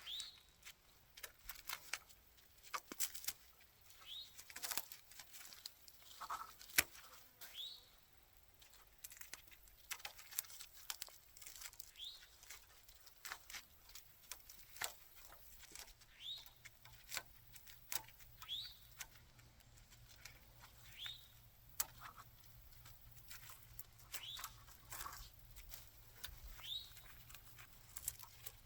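Old vines being snipped and pulled off wire fencing: irregular sharp clicks, snaps and crackles. A short high chirp repeats every second or two throughout.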